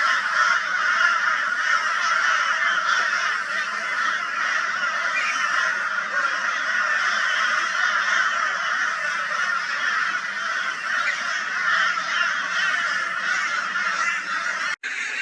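A flock of crows mobbing a barn owl with loud raucous calling, many voices overlapping into one unbroken din, cut by a brief gap near the end.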